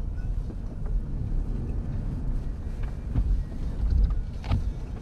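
Low steady rumble of a car, with a single sharp click about four and a half seconds in.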